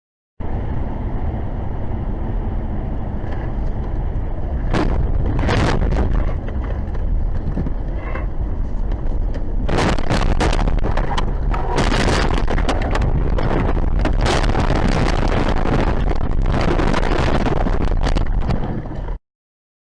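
Vehicle on the move, with steady road and wind rumble and a series of sharp knocks. There are a couple of knocks about five seconds in and a dense run of them from about ten seconds; the sound cuts off suddenly near the end.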